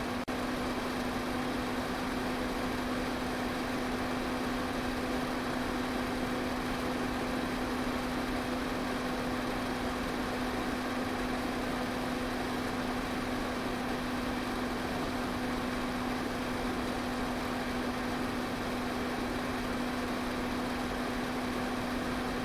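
Electric fan running steadily: an even rush of moving air with a constant motor hum underneath.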